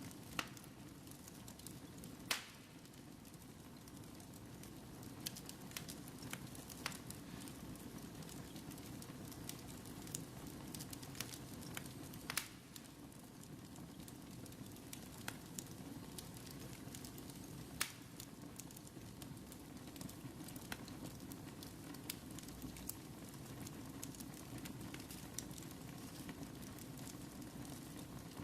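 Wood fire in a fireplace burning with a steady low rush and scattered sharp crackles and pops, the loudest pops about two seconds in and about twelve seconds in.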